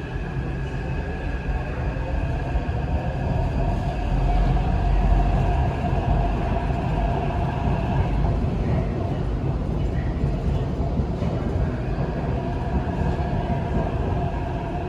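Taipei Metro train pulling out of a station: a steady low rumble with a motor whine held over it, loudest about four to six seconds in.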